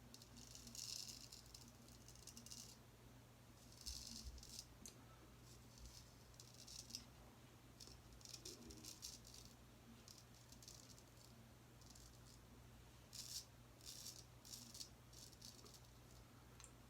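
Faint scratchy scraping of a Gold Dollar 208 straight razor cutting lathered stubble, in short irregular strokes of under a second each, over a steady low hum.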